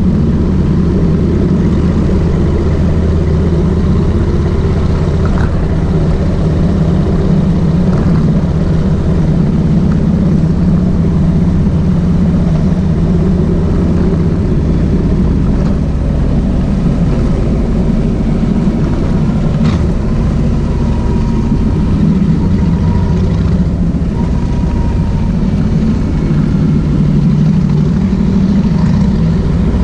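Kawasaki VN 1600 Mean Streak's V-twin engine running on the move, loud and steady, its note shifting about halfway through.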